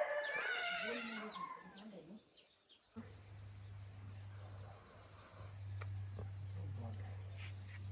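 Chickens clucking for about two seconds. About three seconds in the sound changes abruptly to a low steady hum with a few faint clicks.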